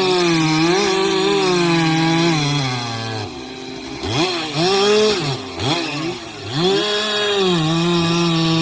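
Chainsaw engine running at high revs. In the middle its pitch drops sharply and climbs back several times in quick succession.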